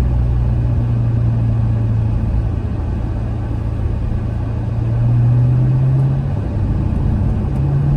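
2016 Corvette Stingray Z51's 6.2-litre LT1 V8, fitted with an AWE X-pipe exhaust, droning steadily at a cruise under road noise. Its pitch and loudness rise slightly about five seconds in.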